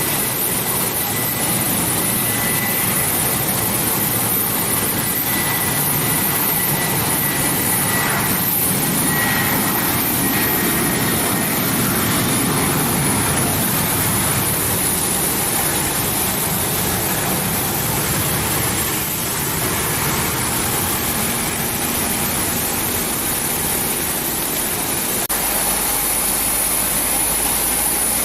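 Boeing 737-800 jet engines running steadily, a continuous rushing noise with a thin high whine over it. About 25 s in, the low rumble changes abruptly as the scene switches to another 737-800.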